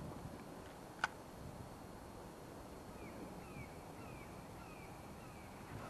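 A bird calling a steady run of short, falling high notes, about two a second, starting about three seconds in, over quiet outdoor ambience. A single sharp click about a second in.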